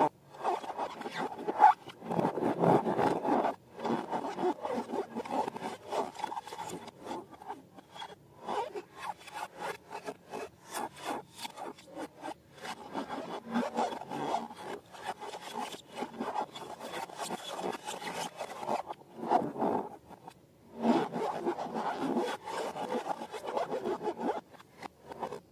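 Slime being worked by hand: a continuous run of sticky, crackling rubbing and squishing, broken by a few short pauses.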